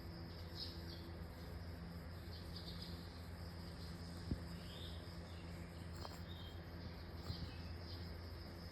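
Faint, scattered chirps of small birds or insects over a steady low electrical hum, with a single sharp click about four seconds in.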